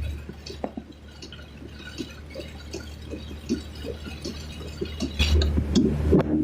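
Raindrops ticking on a car's windshield and roof from inside the cabin, over a steady low hum of the moving car. About five seconds in, the hum grows louder as water starts rushing around the car on the flooded road.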